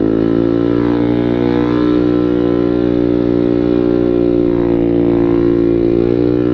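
Motorcycle engine running at steady mid-range revs through an aftermarket Samlong full-system exhaust with a drilled baffle, giving a loud, even exhaust note. The pitch steps up slightly near the end.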